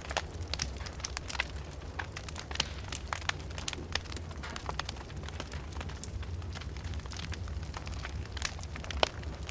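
Fire burning in a fireplace, crackling with irregular sharp pops and snaps over a steady low rumble. The loudest pop comes about nine seconds in.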